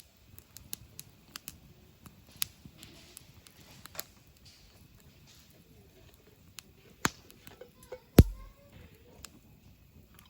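Wood campfire crackling, with scattered sharp pops and snaps and a louder crack with a low thump about eight seconds in.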